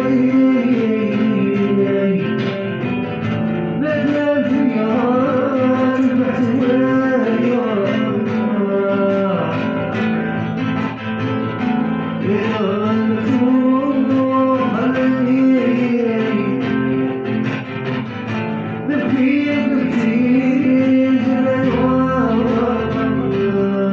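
Algerian raï song: a male voice singing an ornamented, sliding melody over plucked-string accompaniment.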